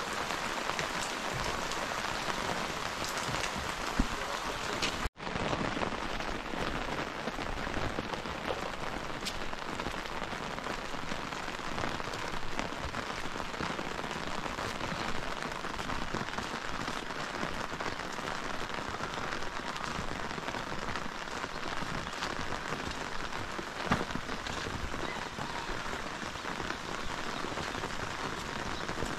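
Heavy rain falling steadily, with scattered louder drops striking close by. The sound breaks off for an instant about five seconds in.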